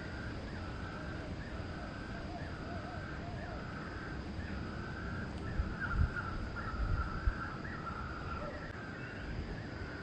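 A bird giving the same short call over and over, roughly three calls every two seconds, with a few low bumps between about six and seven and a half seconds in.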